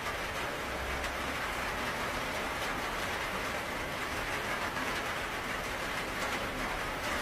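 Steady heavy rain: a dense, even hiss of falling rain with a faint low rumble underneath.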